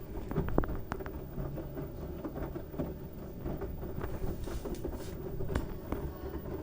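LG washing machine running a load of wet towels: a steady low rumble from the turning drum, with scattered knocks and clicks throughout.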